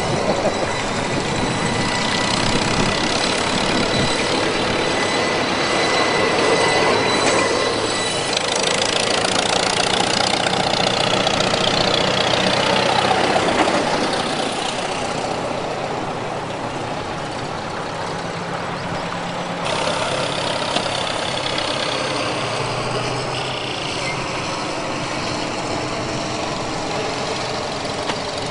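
Antique farm tractor engines running, with the engine pitch rising and falling between about a third and halfway in, then settling a little quieter.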